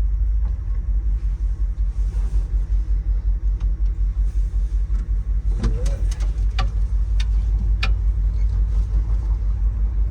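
1967 Ford F100's engine running cold with the choke on as the truck drives, a low pulsing rumble. A short squeak and a few sharp clicks come about six to eight seconds in.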